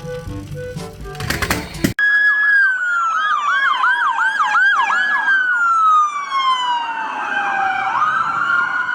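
Background music cuts off about two seconds in, then a toy police car's electronic siren sounds: a steady high tone laced with quick repeated falling swoops, then a slow falling wail that jumps back up near the end.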